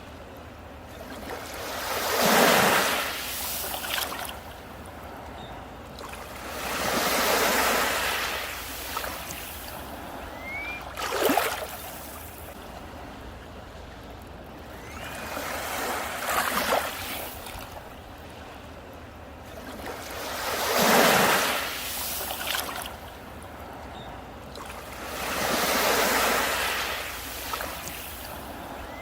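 Sea waves breaking on a beach, each swelling and washing back about every four to five seconds, with one sharper, shorter crash about a third of the way through.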